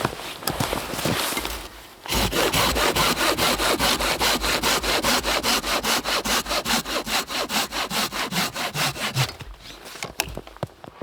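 Hand saw cutting through firewood with fast, even back-and-forth strokes, starting about two seconds in and stopping a little before the end. Softer rustling and handling noises come before the sawing, and a few clicks follow it.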